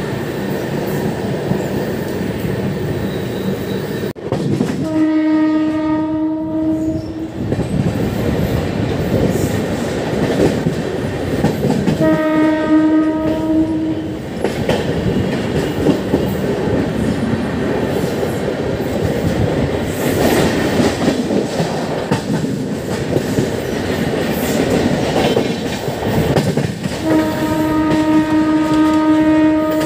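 Indian Railways train running with steady rumble and wheel clatter, while a locomotive horn sounds three held blasts on one pitch: about five seconds in and about twelve seconds in, each about two seconds long, and a longer one starting near the end.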